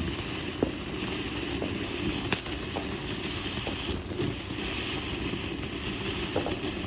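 Firework still going off: a steady hissing, crackling spray broken by a few sharp pops, the loudest a little over two seconds in.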